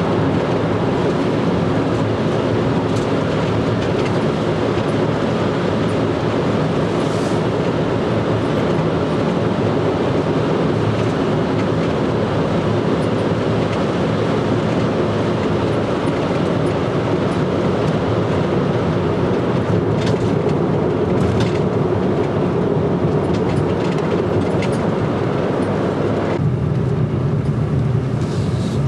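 Steady rumble and road noise of a moving vehicle. Near the end it changes abruptly, losing most of its higher hiss while the low rumble continues.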